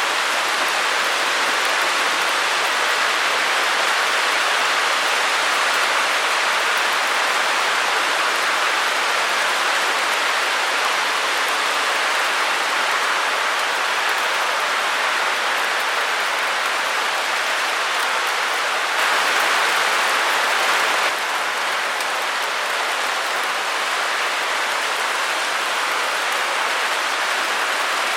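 Steady white noise: an even, unbroken hiss centred in the middle and upper range, with little low rumble. About 19 seconds in it lifts slightly in level for two seconds, then settles back.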